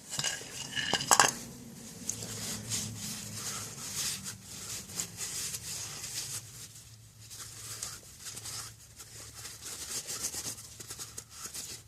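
Scrubbing and wiping of greasy metal bearing parts by hand, an irregular rubbing and scraping with scattered small clicks and a sharp knock about a second in, over a faint steady low hum.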